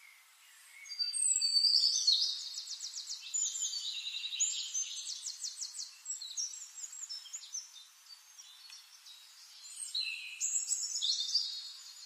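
Prothonotary warbler song: rapid series of repeated high, ringing notes, starting about a second in, easing off partway through and picking up again near the end.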